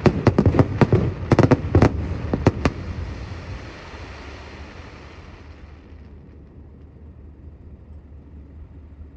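Fireworks going off in a quick string of sharp bangs, ending about two and a half seconds in, then a low rumbling echo and crackle that fades away.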